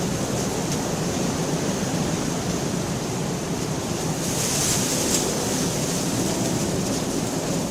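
Steady rain falling, with a continuous low rumble under it and a brief swell of brighter hiss about four to five seconds in.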